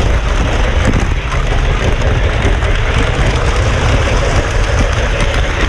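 Model train running along its track: a steady rumble.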